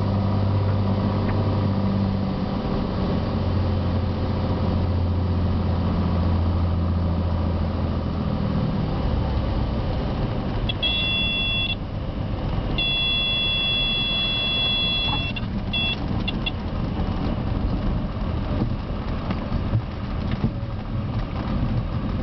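Cessna 182T engine and cabin noise, with a steady engine hum that drops away about nine seconds in as power comes back. Then come two steady high-pitched warning tones, one about a second long and one about two and a half seconds, with short blips after.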